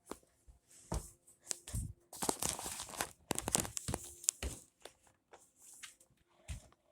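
Irregular rustling and crinkling with scattered light clicks and knocks, heaviest in the middle.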